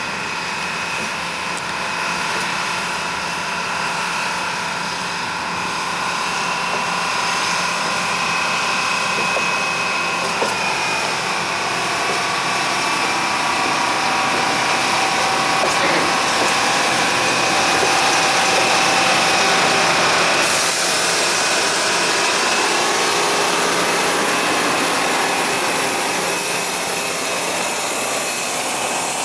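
Engine of a rail locomotive crane running steadily as the crane moves along the yard track, with several steady whining tones that shift partway through.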